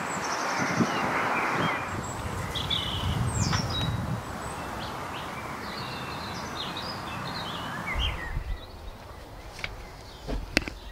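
Small birds chirping and singing over a steady outdoor rushing noise. The rushing drops away about eight seconds in, and a few soft knocks follow near the end.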